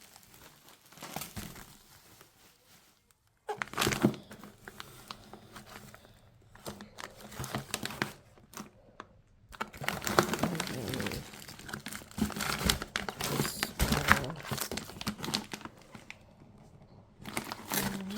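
Plastic packaging crinkling and rustling in irregular spells as groceries and an ice pack are handled and unpacked from a delivery box.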